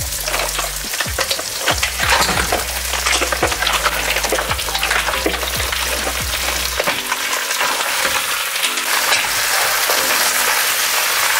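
Razor clams sizzling as they are tipped into a wok of hot oil and frying onions and stirred, with a steady loud hiss and many sharp clacks of shells and utensils against the pan.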